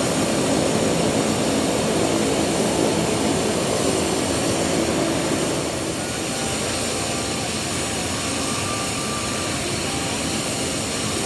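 Engine noise of an aircraft flying a display pass, a steady rumble that eases a little about six seconds in.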